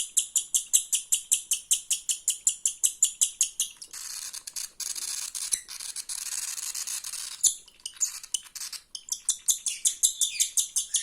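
Cockatiel chick begging while being hand-fed from a syringe: rapid, high-pitched rhythmic chirps at about six a second. Midway they merge into a continuous rasping hiss for about three seconds, then the rhythmic chirping resumes.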